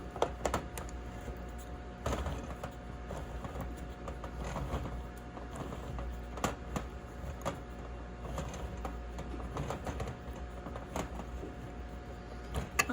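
Hand-held can opener cranked around the lid of a tin can, giving irregular clicks and short scraping strokes, over a steady low hum.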